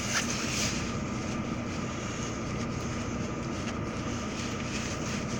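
Car engine running steadily: an even noise with a faint steady low hum.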